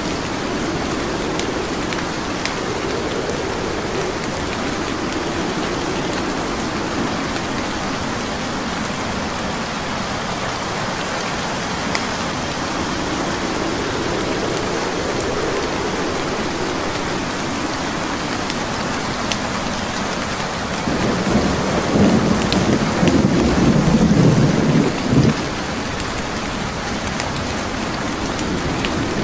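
Steady rain with the scattered sharp crackles of a wood fire. Roughly three quarters of the way through, a low rumble of thunder swells for about four seconds, the loudest thing in the clip, then dies away.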